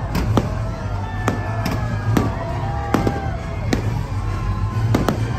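Fireworks going off in quick succession: a string of sharp bangs, roughly one every half second.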